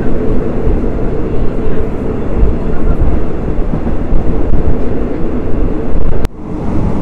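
Steady rumble and rush of a moving third-class passenger train, heard from inside the carriage, with a hum that fades about halfway through. The sound breaks off sharply near the end and comes back quieter.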